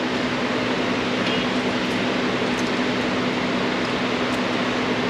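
Steady whir of a fan running with a constant hum under it, broken only by a few faint light ticks.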